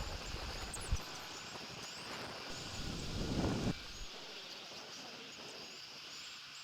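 Outdoor wind noise on a nest camera's microphone, with faint, short, high chirps of small birds throughout. There is a single knock about a second in, and a low rumbling gust swells and stops just before the four-second mark.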